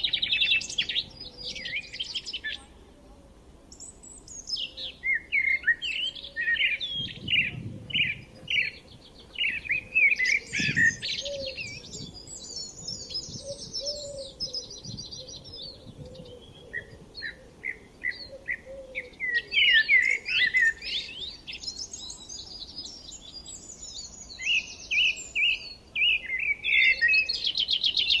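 Songbirds singing and chirping in dense, overlapping calls, with a brief lull a few seconds in. Rapid buzzy trills come near the start and again near the end.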